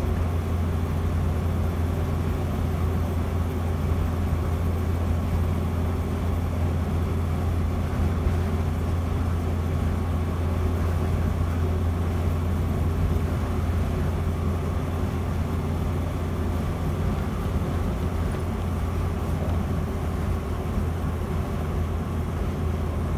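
A Land Rover Series 3's 2.25-litre four-cylinder petrol engine running at a steady cruise, a low, even drone with road noise, heard from inside the cab.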